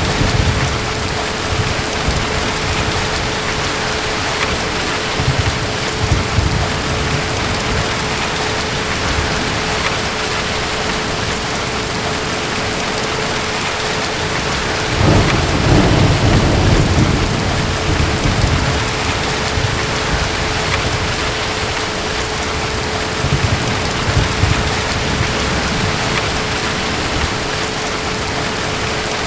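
Steady heavy rain with low rolls of distant thunder, three of them, the loudest about halfway through.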